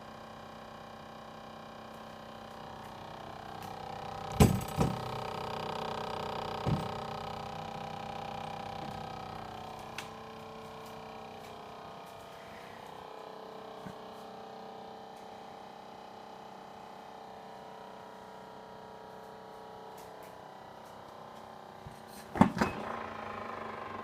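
Hotpoint Quaddro fridge freezer running with a steady multi-tone humming drone that swells about three seconds in and eases after about ten seconds. This is an abnormal noise that has survived a fan and control computer replacement, and the engineer again blames the fan and computer. A few sharp knocks come at about four and a half seconds, near seven seconds and near the end.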